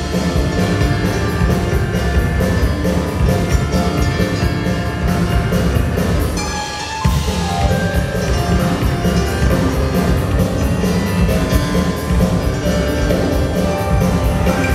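Live band playing an instrumental piece with a drum kit. The music thins out briefly just before seven seconds in, then the full band comes back in.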